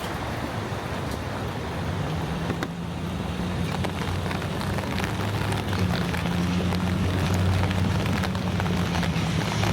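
An engine's low hum coming in about two seconds in and growing slowly louder, as of a vehicle drawing nearer, over a steady outdoor noise with a few faint clicks.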